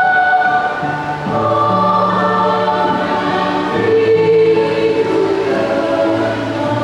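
A children's choir singing a Christmas carol in held, sustained notes over steady low notes.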